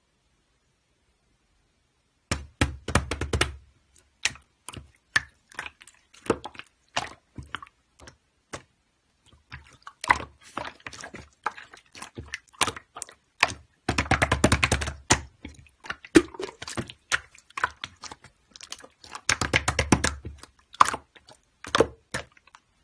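Slime being squished and poked by hand: irregular sticky clicks and pops, with denser crackling stretches about halfway through and again near the end.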